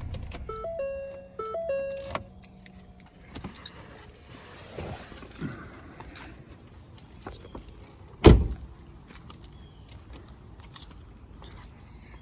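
A short run of electronic chime tones stepping between two pitches from a Ford Focus, with a click as they end. About eight seconds in comes a single loud car door slam.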